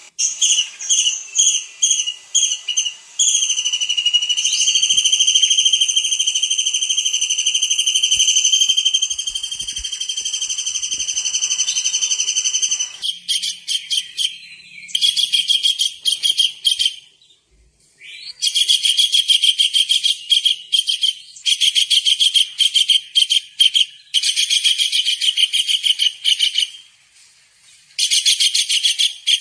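Kingfisher calling loudly in high, piercing whistles. It opens with a run of short falling notes, then holds one long steady whistle for about ten seconds. From about halfway it switches to rapid trilled bursts of a second or two each, with short pauses between them.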